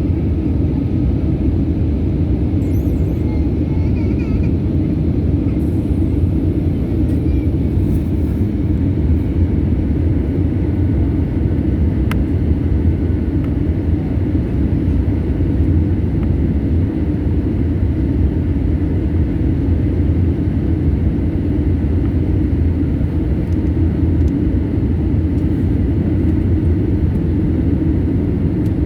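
Airliner cabin noise: a steady low rumble of the engines and airframe, even and unbroken.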